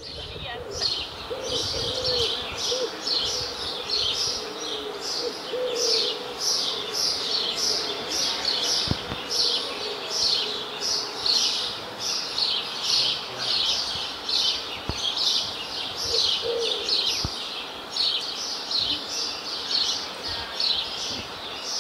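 A bird calling a short falling chirp over and over, about two a second without a break, with a few lower cooing calls, likely a dove, now and then.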